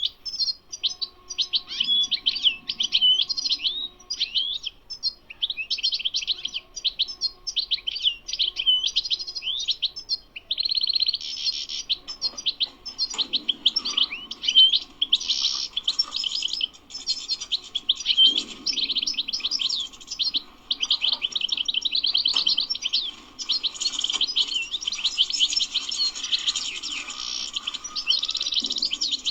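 European goldfinch singing a long, fast twittering song of rapid chirps and short trills, with only a brief pause partway through.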